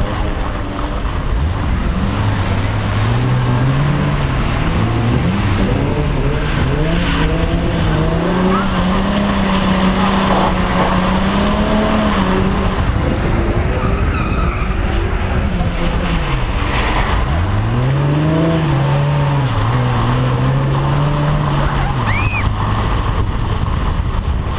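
Car engine held high in the revs and revved up and down on a wet skid pan, pitch climbing, dropping sharply about halfway through, then climbing again, over a steady hiss of wind or tyre noise.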